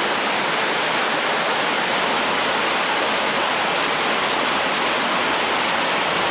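Rushing water of a small mountain stream, a steady even rush.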